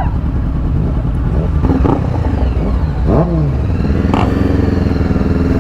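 Honda CBR500R parallel-twin motorcycle engine under way, its revs rising and falling twice, then holding a steady pitch from near the end.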